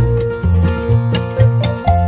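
Upbeat background music with plucked guitar and a steady beat.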